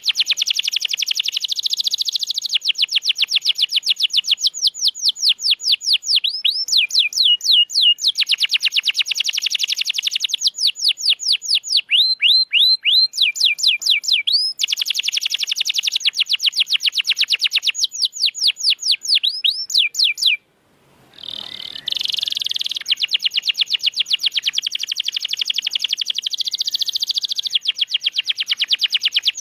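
Domestic canary singing in long, fast trills of rapidly repeated notes, some as rising or falling sweeps. The song breaks off briefly about twenty seconds in, then resumes.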